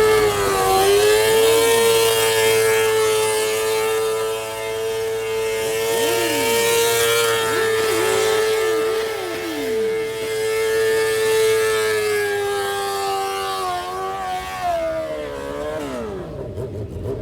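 Siren sounding one loud, steady tone that holds for about fourteen seconds, then winds down in pitch near the end.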